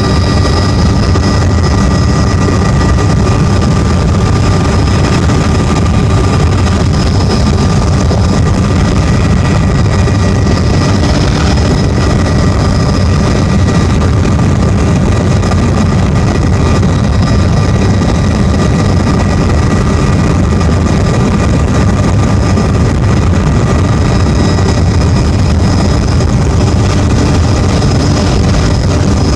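Tour helicopter in flight: the engine and rotors make a steady, loud drone with a constant high whine over it.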